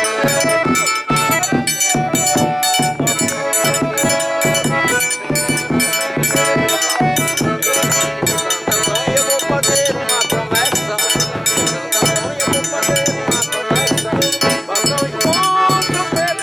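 Live forró pé-de-serra played on a button accordion, zabumba bass drum and triangle: held accordion notes over a steady quick beat, with low drum thumps and the triangle's bright regular strokes.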